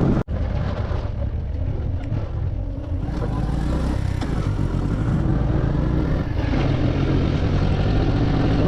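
Motorcycle engine running steadily while riding, with road and wind noise; the sound drops out for an instant just after the start.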